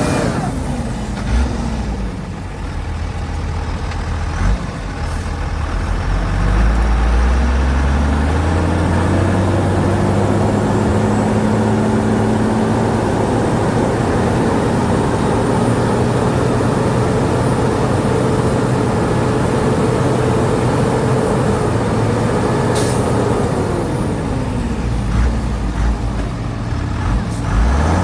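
Heavy diesel engine of earthmoving machinery dropping in revs, then revving up a few seconds in and holding high revs under load, before easing off near the end.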